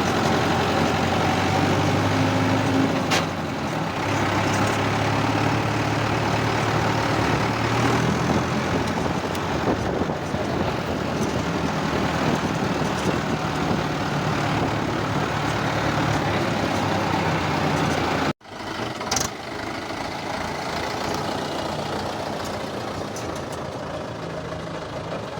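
Mahindra tractor's diesel engine running steadily. The sound cuts out abruptly about two-thirds of the way through, then resumes a little quieter.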